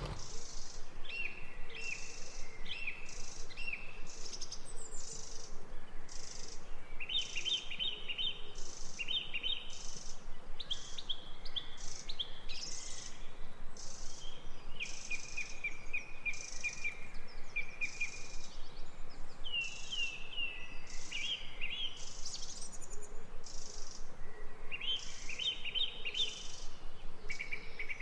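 Songbirds chirping in quick runs of short falling notes, over a steady pulsing of insects that repeats about once a second.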